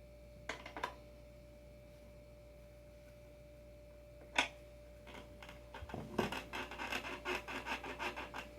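Surfskate adapter hardware being handled on a longboard: a few small clicks, a sharp knock about four seconds in, then a quick run of scraping and clicking near the end.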